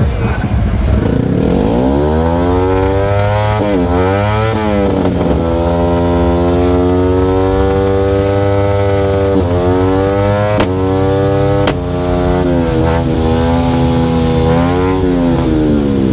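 Motorcycle engine pulling up through the revs with short breaks like gear changes, running at a steady pitch for several seconds with a few brief dips, then dropping in pitch as it slows near the end.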